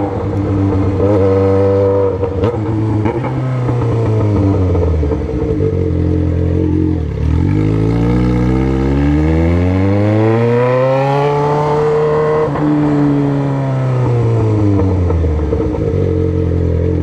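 Yamaha XJ6's inline-four engine through a straight-pipe 4-into-1 exhaust, heard while riding. The engine note drops from about four seconds in, then rises in one long smooth pull and falls again as the throttle is eased off.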